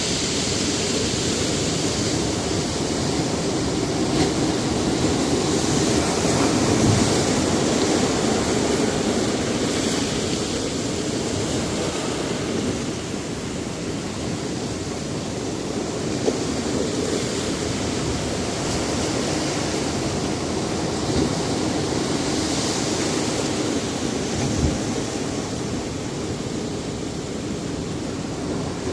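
Sea surf breaking on a rocky shore: a continuous wash of waves, with the hiss of each breaker swelling and fading every several seconds and a few brief knocks among the rocks.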